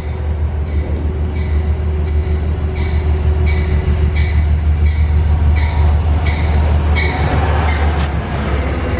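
Amtrak passenger train rolling by with a loud, steady low rumble. Its wheels give a regular click about every 0.7 s.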